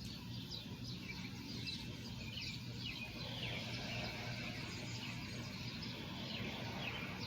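Small birds chirping, short calls that slide down in pitch, coming every second or so, over a steady low hum.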